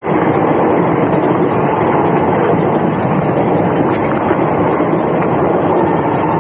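Electric-hauled passenger train of ICF coaches passing at speed: a loud, steady rush of wheels on rails with a clickety-clack over the rail joints.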